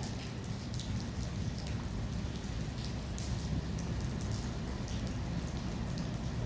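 Rain falling, with drops ticking irregularly on something close by, over a steady low rumble.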